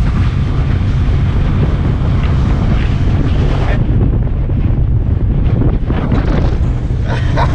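Wind buffeting the microphone on a speedboat under way, a loud steady rumble and rush with the boat's motion and water underneath.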